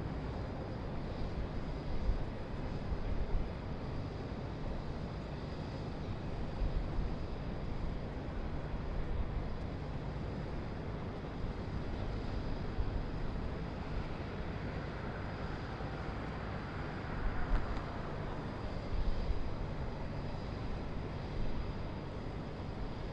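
Downtown city ambience heard from high above: a steady low rumble of distant traffic, with a few brief louder swells and a faint passing hiss in the middle.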